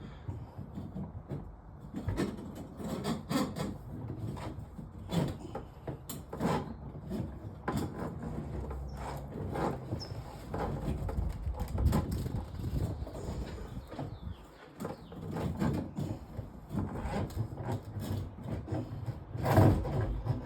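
Irregular knocks, clatter and scraping of a drain-cleaning line being worked down into a kitchen sink drain pipe.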